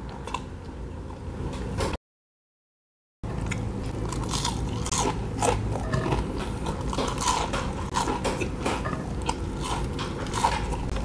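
Close-up chewing and crunching of crispy fried onion rings, with many sharp crackly bites. There is a stretch of dead silence about two seconds in, after which the crunching is denser.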